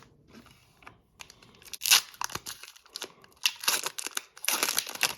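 Wrapper of an Upper Deck hockey card pack being torn open and crinkled. It comes in several rasping rips, the loudest about two seconds in and a longer run near the end.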